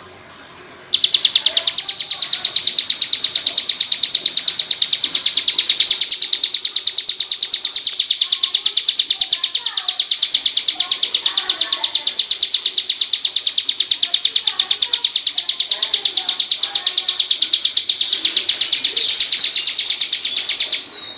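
Bar-winged prinia (ciblek) giving its long 'ngebren' trill: a rapid, even rattle of high notes, about ten a second, starting about a second in and held for some twenty seconds before it stops.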